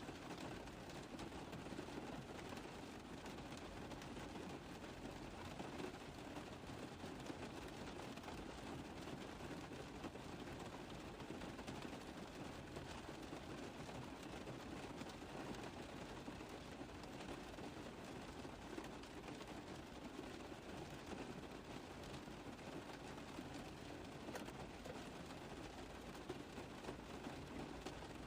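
Rain falling on a car roof: a dense, steady patter of drops.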